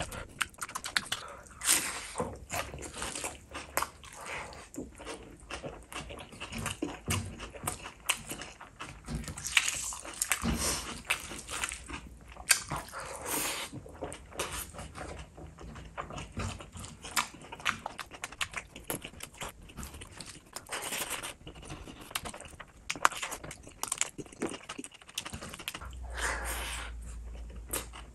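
Close-miked eating sounds: wet chewing and lip smacking as gravy-soaked rice and chicken are eaten by hand. The sounds come as irregular smacks and clicks, with a few longer wet sucking sounds.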